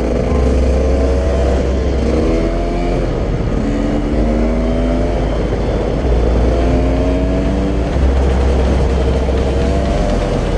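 Dirt bike engine revving up and shifting while riding, its pitch climbing and then dropping every second or two. Wind rumble on the microphone underneath.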